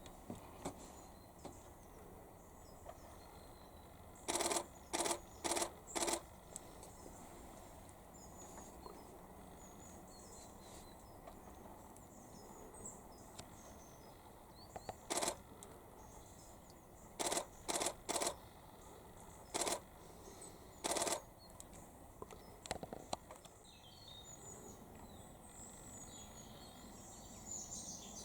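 About ten loud, sharp bursts of clicking or knocking, each a fraction of a second long. Four come in quick succession about four seconds in, and the rest are spread through the middle. Faint chirping of small birds carries on underneath.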